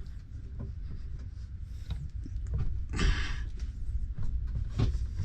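Handling noises of things being stowed in a storage compartment: scattered knocks and clicks, a short rustle about three seconds in, and a couple of sharper knocks near the end, over a steady low hum.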